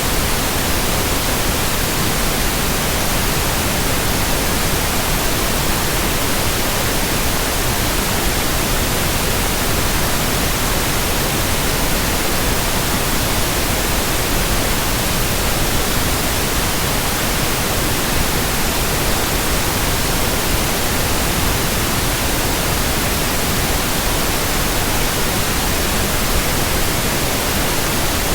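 Steady white noise: an even, full-range hiss with no rhythm, pitch or change.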